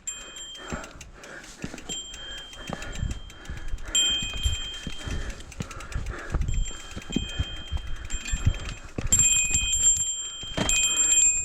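Mountain bike disc brakes squealing in short spells of a second or two, a few times, as a high steady tone. Under the squeal is the low rumble and knocking of the bike running over rough trail, with wind on the microphone.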